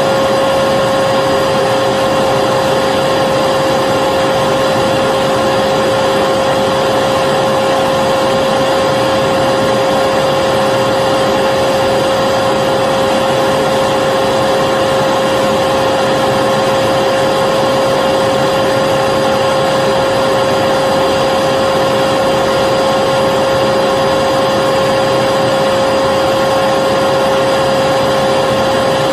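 Vacuum cleaner running steadily: an even rush of air under a constant high-pitched motor whine, with no change in pitch or level.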